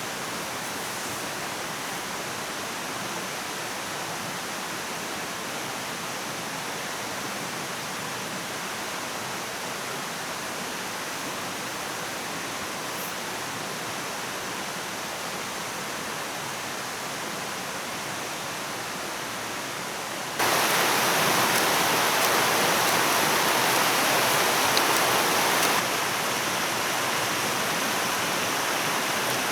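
Steady rushing of running water, like a stream. It jumps suddenly louder about two-thirds of the way through and drops back slightly a few seconds later.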